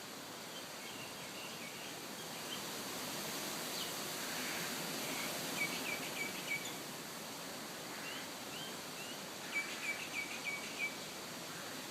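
Small birds chirping over a steady background hiss of open-air ambience, with two runs of quick repeated chirps, one about halfway through and one near the end.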